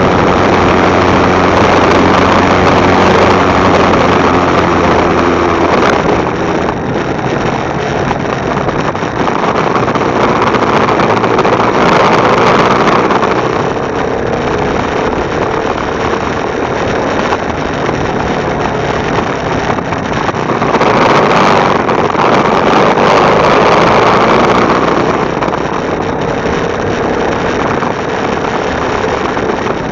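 Motorcycle engine running while riding, with wind rushing over the microphone. The engine's steady hum is clear for the first few seconds, then wind and road noise take over, swelling and easing a few times.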